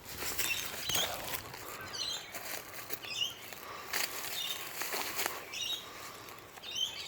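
Crackly rustling and crunching of dry leaves and twigs, with birds chirping in short calls about once a second throughout.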